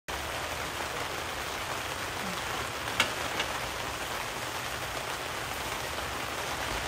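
Steady rain falling, an even hiss with no let-up. About three seconds in come two sharp clicks less than half a second apart.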